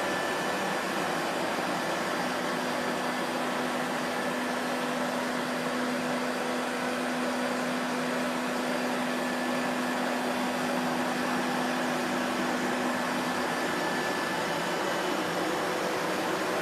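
Vacuum cleaner running steadily: a continuous rushing air noise with faint steady motor tones. A low hum stands out from about two seconds in and falls back a few seconds before the end.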